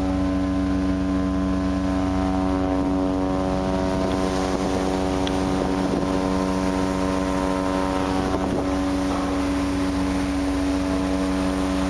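Steady drone of a ship's engine: an even hum of several constant tones over a low rumble, unchanging throughout.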